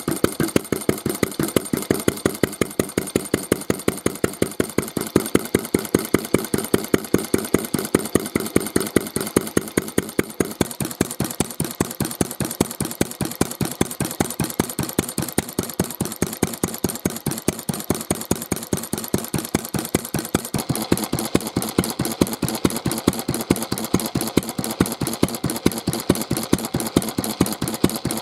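Mitsubishi J1-type kerosene stationary engine running steadily at idle, with an even, regular beat of firing strokes. Its tone shifts about ten seconds in and again about twenty seconds in.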